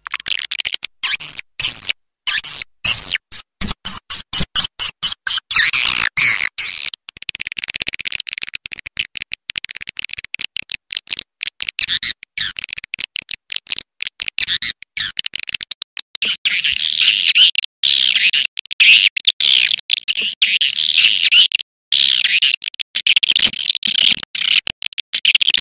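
Recorded swiftlet lure call: dense, rapid twittering and chirping of swiftlets, choppy with many short gaps, the call used to draw swiftlets into a nesting house.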